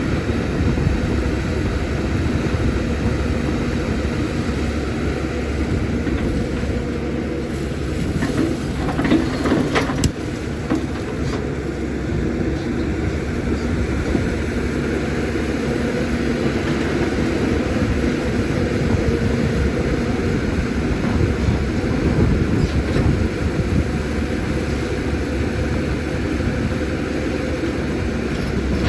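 CAT 320D hydraulic excavator's diesel engine running steadily under working load. About a third of the way in it swells briefly and ends with a single sharp knock.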